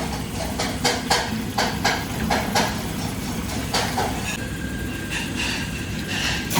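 Kitchen work: irregular knocks and clinks of utensils and cookware, about two a second for the first four seconds, over a steady low hum. The knocks then thin out and a faint steady high tone comes in.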